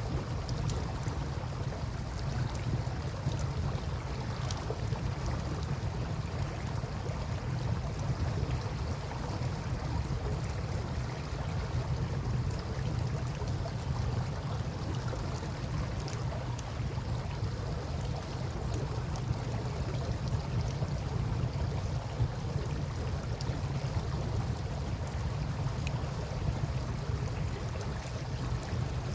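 Campfire crackling with scattered faint pops, over a steady low rush of river water.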